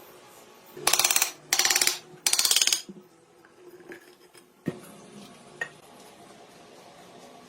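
Three short bursts of rapid metallic clicking, about half a second each, followed by two single light metallic clicks, from metal tools or parts being worked on.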